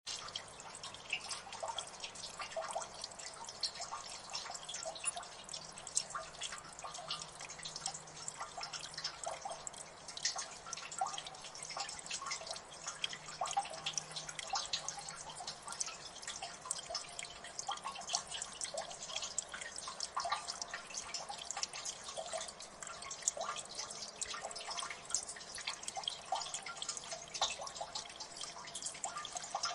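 Water dripping in a gully: many irregular drops, several a second, plinking over a faint background wash of water.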